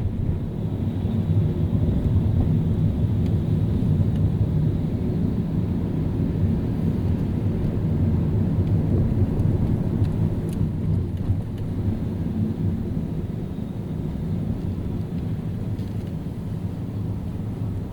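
Car driving on a city road: a steady low rumble of tyres and engine, easing off a little over the second half.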